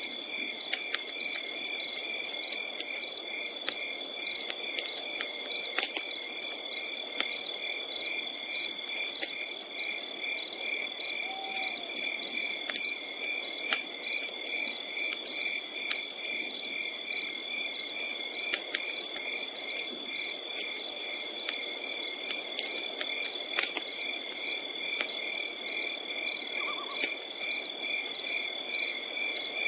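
Crickets chirping in even pulses, about three a second, over a steady high insect trill, with scattered sharp crackles and pops from a campfire.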